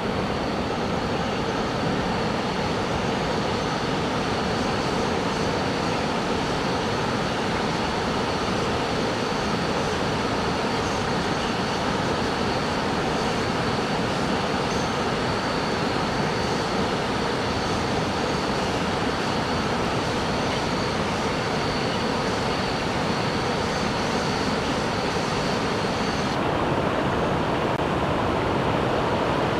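Waterfall water rushing in a steady, even wash of noise, with a thin high steady whine above it that cuts off about 26 seconds in.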